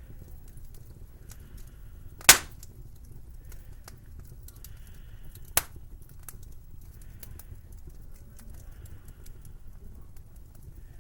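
Slow footsteps crunching through snow, about one step every second and a half, over a low steady wind rumble. A loud sharp crack sounds about two seconds in and a smaller one a little past halfway.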